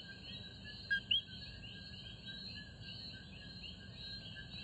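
Faint outdoor ambience with small birds chirping in quick, repeated calls, several a second, and two short louder chirps about a second in.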